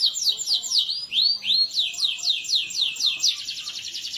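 Domestic canary singing a fast, sustained song: a rapid series of high descending whistled notes, about eight a second, broken about a second in by two slower arched notes, then running into a quicker rolling trill near the end.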